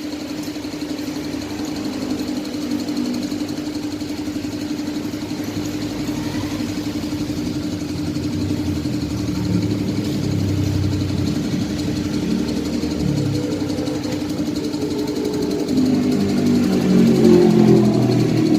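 A motorcycle engine running steadily with a constant hum, growing louder near the end.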